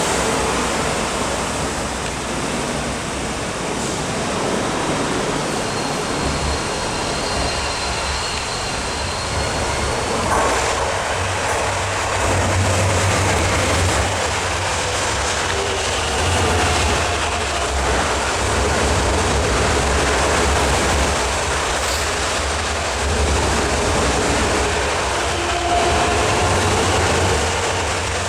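Hong Kong MTR C-Train electric multiple unit running through the station without stopping: a continuous rumble of steel wheels on rail, its low drone swelling and easing every few seconds as the cars go by.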